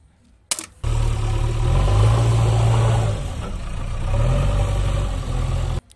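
A toy JCB's built-in engine sound effect: a click about half a second in, then about five seconds of loud engine running and revving, rising and falling in pitch, which cuts off suddenly.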